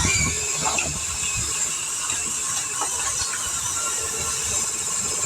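Radio-controlled pulling truck straining at full throttle against a heavily weighted sled: a steady high-pitched drivetrain whine over the hiss of tyres spinning and digging a trench in the dirt. It cuts off suddenly right at the end as the throttle is released.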